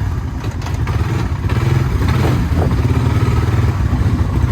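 Vehicle engine running steadily with a deep, low pulsing rumble.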